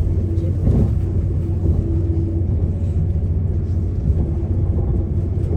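Steady low rumble of a moving passenger train heard from inside the carriage, with a faint steady hum above it.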